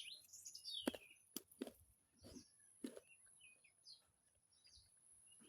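Faint, sparse birdsong of several short chirps, mostly in the first second and again around the middle, with a few soft clicks and a steady faint high tone behind them.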